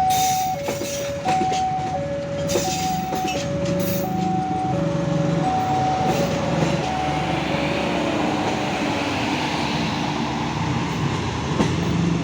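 Railway level-crossing alarm sounding its two alternating tones, low-high, about 0.7 s each, while a slow train rumbles past with wheels clicking over the rail joints. The alarm fades out about two-thirds of the way through as the train noise carries on.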